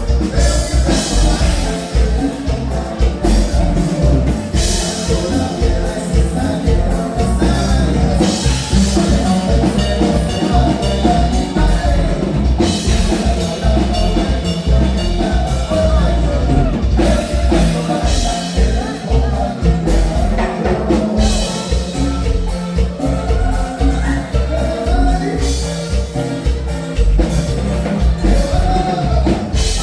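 Norteño dance music with singing over a steady beat.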